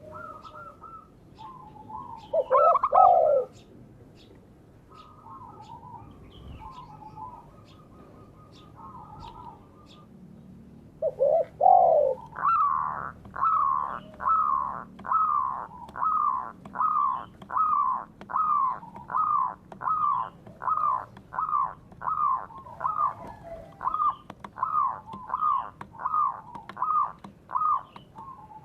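Doves cooing in short, soft phrases. About eleven seconds in, a bird starts a long, even series of loud downslurred calls, about one and a half a second, that runs on without a break.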